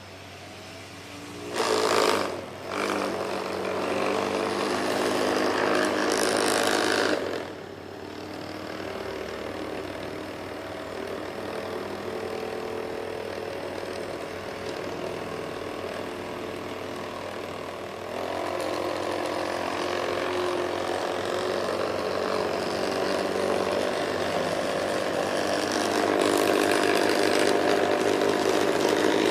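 Small electric gear motor of a homemade remote-control toy helicopter running with a steady whine. It gets louder about two seconds in, drops back about seven seconds in, and picks up again in steps later on.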